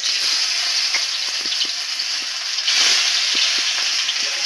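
Pieces of steamed, gram-flour-stuffed taro-leaf roll sizzling in hot oil in a kadhai as they are dropped in to be lightly fried. The sizzle swells about three seconds in, with a few light clicks as pieces touch the pan.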